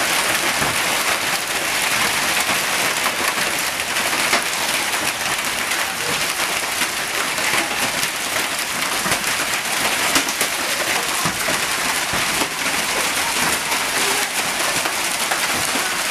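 Hailstorm: dense hail and heavy rain pelting down, a steady loud hiss dotted with countless small sharp impacts.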